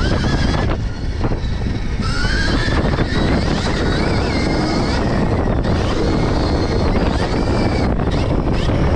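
Stark Varg electric motocross bike's motor whining, its pitch gliding up and down with the throttle, under heavy wind rush on the microphone while riding.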